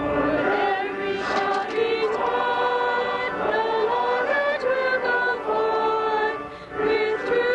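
Choir singing a hymn in held chords, several voices together, with a short break between phrases near the end.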